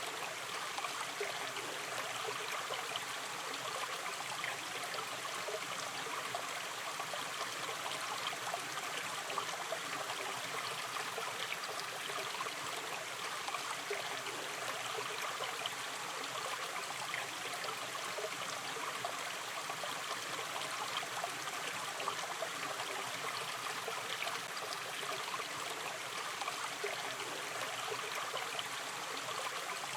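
A small river or stream flowing gently, with a steady, even rush of water and fine trickling and gurgling over it.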